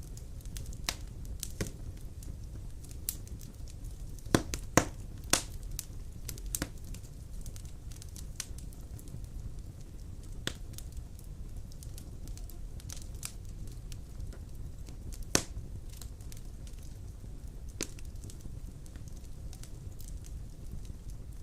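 Wood fire of large logs in a stone fireplace crackling, with irregular sharp pops over a low steady rumble of flame; a cluster of loud pops comes about four to five seconds in and another single loud pop about fifteen seconds in.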